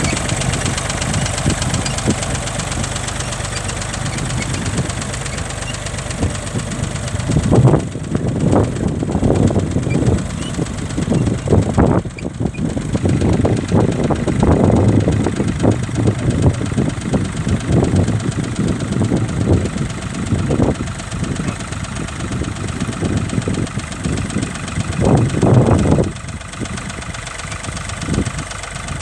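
Vintage tractor engine running steadily. From about seven seconds in, uneven low rumbling surges come and go over it.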